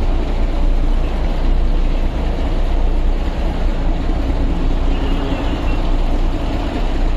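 Darjeeling Himalayan Railway toy-train locomotive running at a standstill, a steady low rumble with no change.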